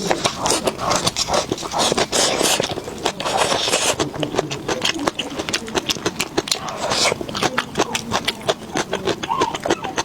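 Close-miked chewing and mouth sounds of a person eating: a dense run of wet clicks and smacks, with a longer noisy stretch about two to three seconds in.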